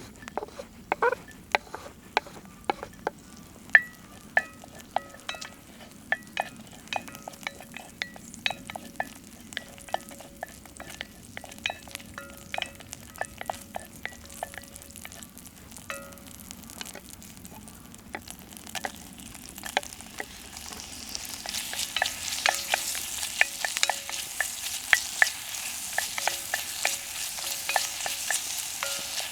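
Food frying in a pan, with a utensil clicking and scraping against it in short ringing knocks. A sizzle grows louder from about two-thirds of the way through.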